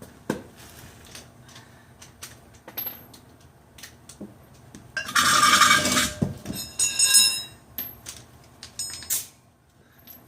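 Metal hand tools clinking and scraping on metal, with a loud rasping scrape lasting about a second around five seconds in, a ringing metallic clink just after it, and a quick run of clicks near the end.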